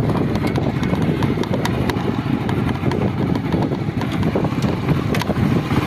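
Motorcycle running as it is ridden: a steady low rumble with scattered sharp clicks.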